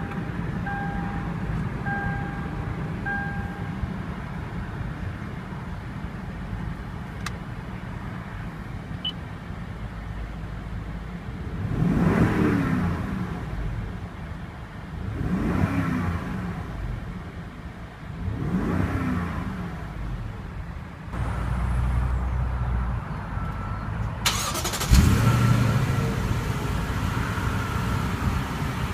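2014 Lexus LX 570's 5.7-litre V8 running just after push-button start, with a dashboard chime beeping about once a second for the first few seconds. The engine is then revved three times, each rev rising and falling back to idle, and a sudden louder rush of noise joins the idle near the end.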